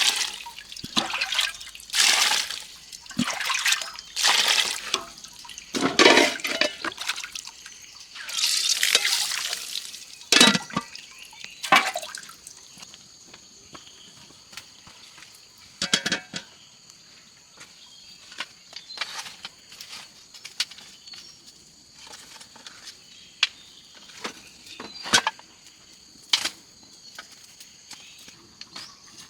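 Water splashing and sloshing in repeated bursts for about the first twelve seconds, then only occasional small splashes and knocks. A steady, high insect drone runs underneath from about nine seconds in.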